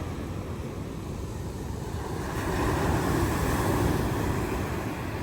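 Wind buffeting the microphone over the wash of sea surf, a steady rushing noise that swells louder about halfway through and then eases.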